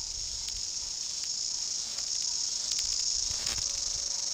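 New Zealand chorus cicadas (Amphipsalta zelandica) singing, a steady high-pitched buzz, with a few faint clicks.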